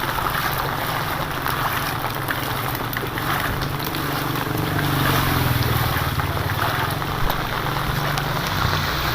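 Steady heavy rain falling, a dense hiss with many small drop ticks, over a low steady rumble.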